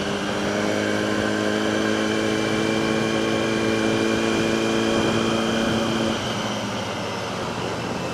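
Motorcycle engine running at a steady cruise over wind and road noise, its note rising slowly; about six seconds in the engine note drops away, leaving mostly wind noise.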